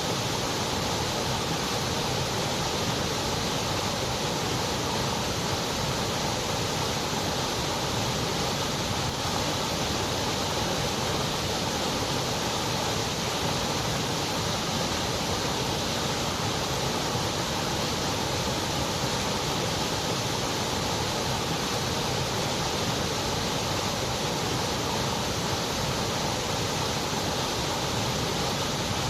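Steady white noise: an even, unbroken hiss that does not change in level or character.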